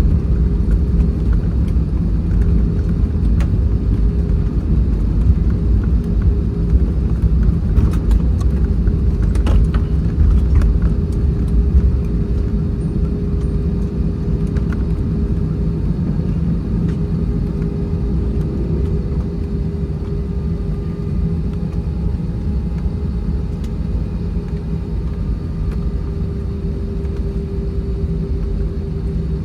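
Cabin noise inside an Airbus A320-232 with IAE V2500 engines after landing: a deep, steady rumble with a constant engine tone, slowly easing. A few light rattles about eight to eleven seconds in.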